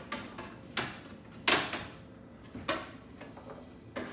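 Plastic food containers clunking against fridge shelves as they are moved and set down: four short knocks, the loudest about a second and a half in.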